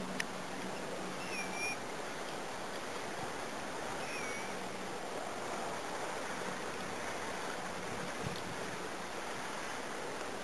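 Steady outdoor hiss, with two short whistled bird notes that dip and rise, about a second and a half in and again about four seconds in.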